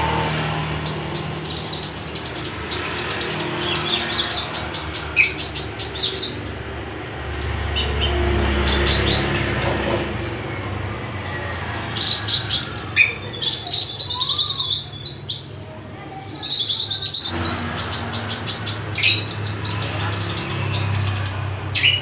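Caged birds, a konin and a lovebird, calling back and forth with quick high chirps and short bursts of calls, over a low background rumble.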